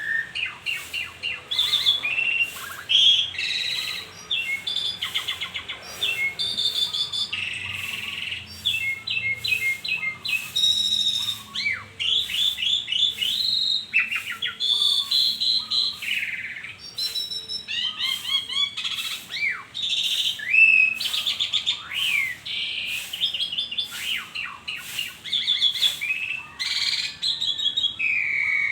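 Asian pied starling (jalak suren) in full, vigorous song: a continuous, varied stream of rising and falling whistles mixed with harsh chatter and rapid clicking rattles.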